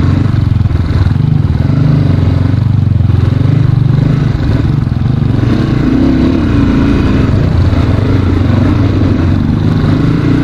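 CrossFire dirt bike engine running steadily while being ridden, its pitch lifting briefly about six seconds in.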